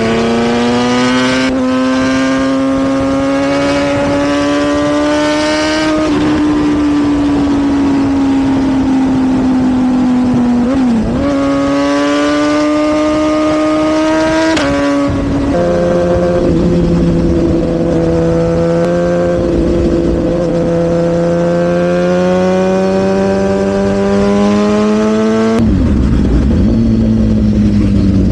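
Sportbike engine under way at road speed. Its note climbs slowly, then drops suddenly at each of several gear changes.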